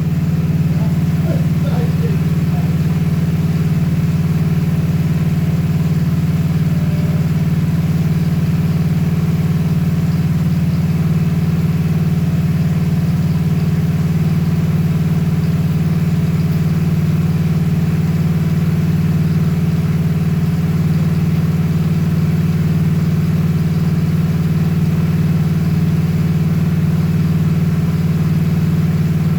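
Honda Shadow 750's V-twin engine idling steadily.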